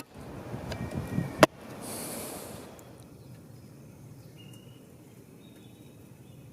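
Two sharp knocks on a coffee pot about a second and a half apart, then a short hiss, as boiled coffee is 'scared' in the Nordic way to settle the grounds. After that only quiet background with faint thin high tones.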